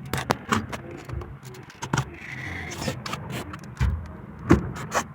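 Irregular clicks and knocks with a short scrape about two seconds in, from washing machine parts being worked loose by hand during disassembly; the loudest knocks come near the end.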